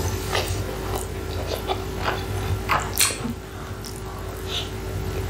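Close-miked chewing of a mouthful of chicken burger: wet mouth clicks and lip smacks at an uneven pace, with a louder click about three seconds in, over a steady low hum.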